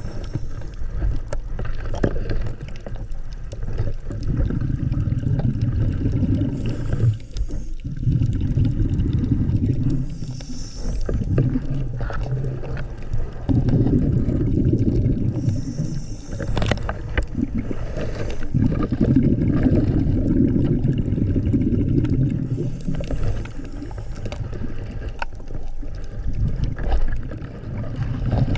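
Scuba diver breathing through a regulator underwater: a short hiss on each inhale and a long rumble of exhaled bubbles, repeating every five or six seconds.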